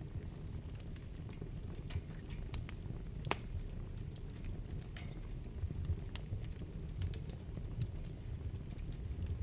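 Wood fire burning in a fireplace: a steady low rumble of flame with irregular crackles and pops, the sharpest pop about three seconds in and a small cluster near seven seconds.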